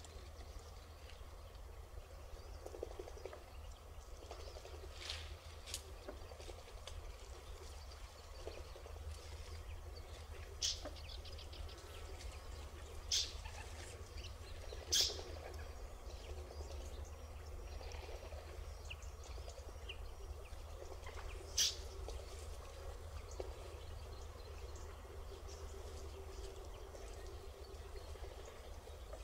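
About half a dozen short, sharp bird calls scattered through the stretch, over a steady low rumble.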